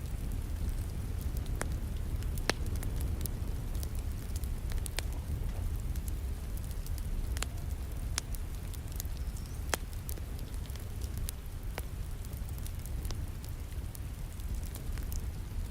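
Wood fire crackling in a fireplace, with sharp irregular pops every second or two, over a steady wash of falling rain.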